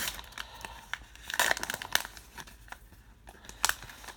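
Crinkling and tearing of a trading-card pack wrapper being torn open by hand, in irregular rustling bursts, the loudest about one and a half seconds in and a sharp crackle near the end.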